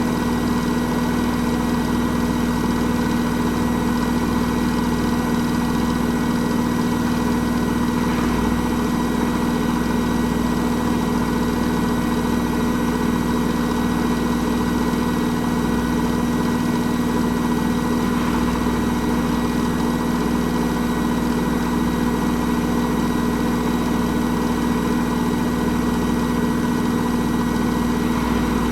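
Hoover H-Wash 300 Plus washing machine running through its rinse-and-spin programme. It makes a steady, unchanging mechanical hum with a constant tone.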